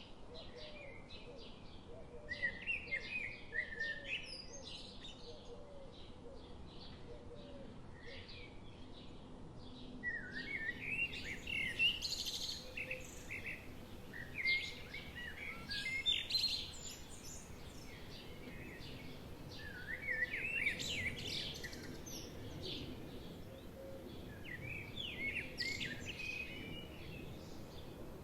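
Small songbirds chirping and trilling in quick bursts, several calls overlapping, over a steady low background hiss of a forest soundscape.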